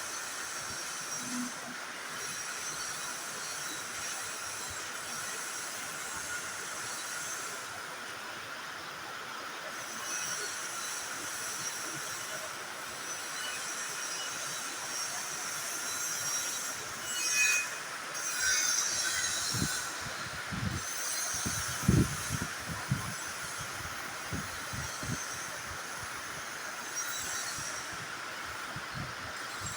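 Welding arc burning steadily with a continuous hiss and a thin high whine over it, breaking into louder irregular crackles and pops for a few seconds past the middle.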